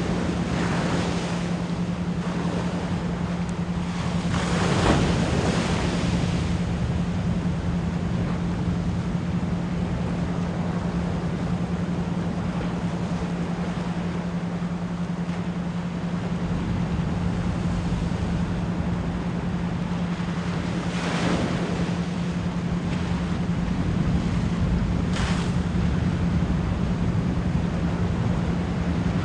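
A steady 174 Hz pure tone with isochronic pulsing at about 10 to 16 beats a second, over ocean waves washing continuously onto a shore. Louder waves surge and break about a second in, around five seconds in, and twice more after twenty seconds.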